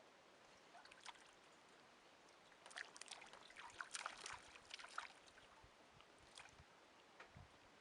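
A school of small baitfish splashing and skittering at the water surface, the surface boiling with them: a flurry of quick little splashes from about three to five seconds in, with a few single flicks before and after.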